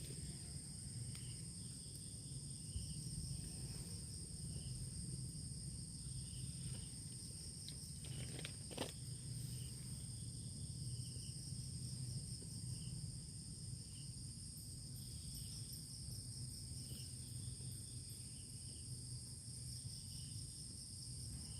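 Night insect chorus, crickets giving a steady high shrill, with a softer chirp repeating about every second or two over a low steady rumble. Two brief clicks come about eight and nine seconds in.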